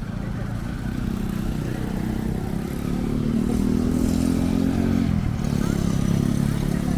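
A motor vehicle engine running close by, its pitch rising a little, breaking off briefly about five seconds in, then running steady again.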